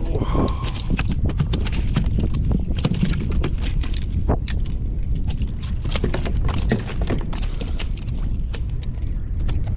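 Rapid, irregular clicks and knocks of fishing gear being handled on a kayak, over a steady low wind rumble on the microphone.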